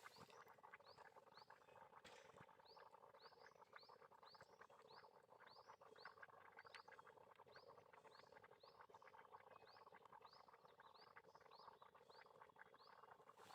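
Faint gurgling, bubbling crackle coming from beneath a railway track, like water boiling, with a short high chirp repeating about one and a half times a second.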